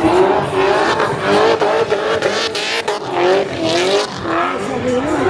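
Car engine revving up and down repeatedly with tyre squeal, as in a burnout.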